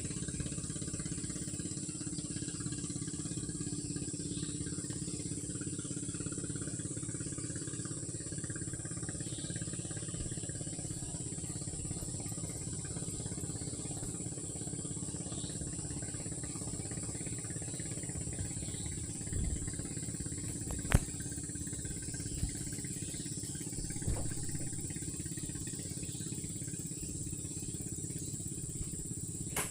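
Steady high-pitched drone of night insects such as crickets, over a constant low engine-like hum. A sharp click stands out about twenty-one seconds in, among a few faint knocks.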